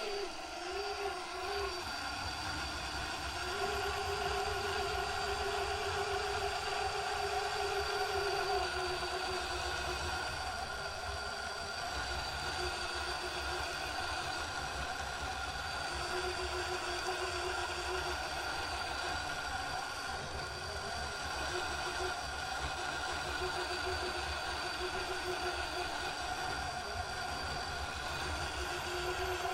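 RC rock crawler's electric motor and drivetrain whining steadily as it crawls up a steep 59-degree incline, with one tone of the whine coming and going as the throttle is worked.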